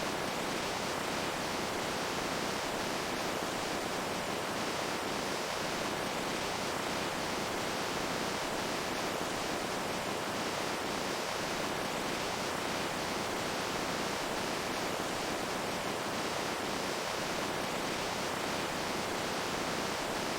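Running water making a steady, even rush that does not change in level.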